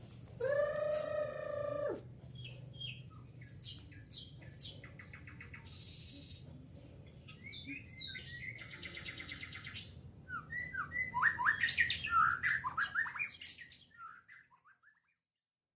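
White-rumped shama singing. A long harsh held note comes first, then scattered chirps and two buzzy rattling trills. About eleven seconds in there is a louder burst of rapid, varied song phrases.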